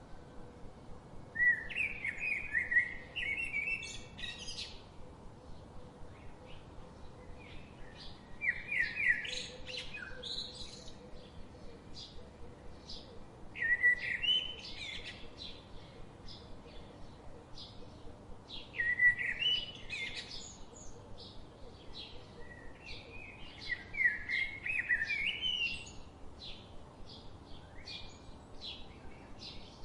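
A wild forest bird singing a short phrase of quick, rising notes, repeated five times about every five seconds, with faint short chirps from other birds between the phrases.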